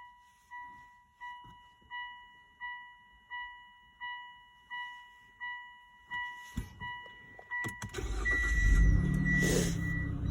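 A car's dashboard chime beeps repeatedly, about one and a half times a second, then a few clicks and the 2019 Mitsubishi Outlander's 3.0-litre V6 cranks and fires about eight seconds in, flaring up briefly before settling into idle. The idle is a little noisy, which the owner takes for an exhaust leak.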